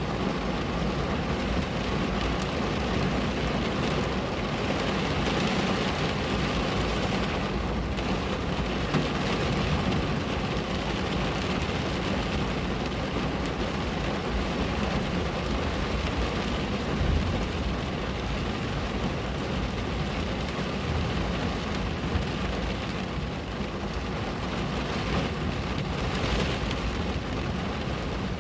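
Steady rain falling on a window, a continuous hiss with many small drop ticks.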